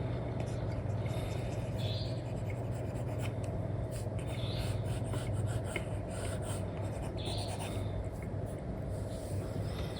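Apple Pencil with an Elecom nib scratching and tapping in short strokes across an iPad screen fitted with a paper-like film. Underneath is a steady background of noise and low hum. A short high chirp comes round about every two and a half seconds.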